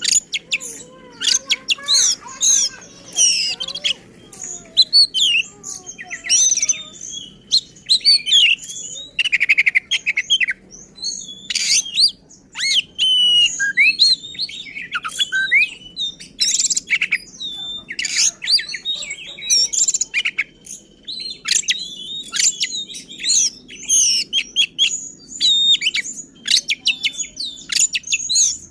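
Oriental magpie-robin (kacer) in full, aggressive song: an unbroken run of loud, sharp high whistles, harsh stuttering notes and rapid trills, mixed with mimicked phrases of other birds.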